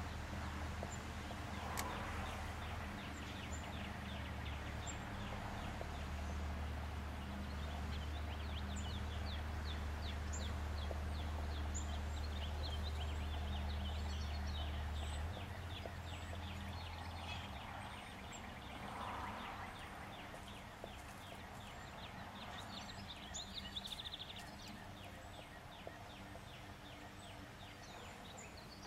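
Outdoor birdsong: many small birds chirping in quick, high repeated notes that run into fast trills, over a steady low hum that drops away about halfway through.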